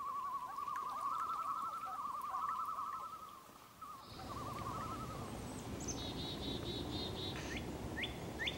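A bird's wavering, quavering call lasting about five seconds. From about four seconds in, a steady outdoor noise floor carries small songbird trills and three short rising chirps near the end.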